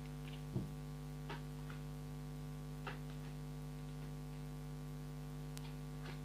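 Steady electrical mains hum running under the recording, a fault in the audio, with a few faint soft taps scattered through it.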